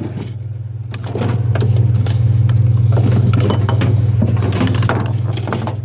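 Vehicle engine idling steadily, with clinking and rattling of metal strap hardware being handled between about one and five and a half seconds in.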